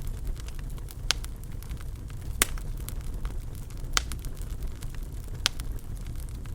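Wood fire in a fireplace crackling, with scattered sharp pops over a steady low rumble; four louder pops stand out about one, two and a half, four and five and a half seconds in.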